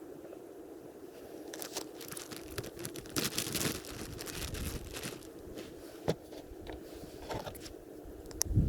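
Irregular crunching and crinkling handling noise, louder for a second or so around the middle, with a sharp click about six seconds in.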